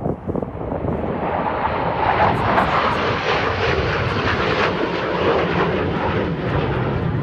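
Jet aircraft flying by: loud jet noise that swells over the first couple of seconds and then holds steady.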